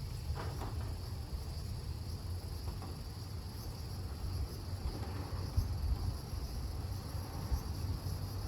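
Gusty wind buffeting the microphone as an uneven low rumble, with a steady high chirring of insects behind it.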